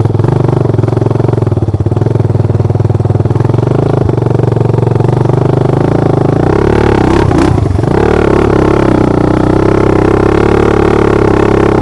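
Motorcycle engine running loud and close, its pitch dipping and swinging back up about seven seconds in, then steady again.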